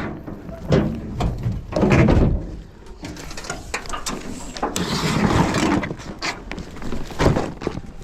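Irregular knocks, thuds and rustling of a kayak and fishing gear being handled, with a longer scraping, rustling stretch about halfway through.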